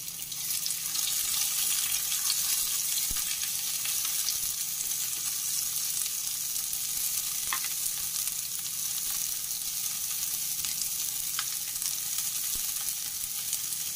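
Sliced onion and garlic sizzling in hot oil in a nonstick pan, stirred and turned with a silicone spatula: a steady high hiss of frying, with a couple of faint ticks.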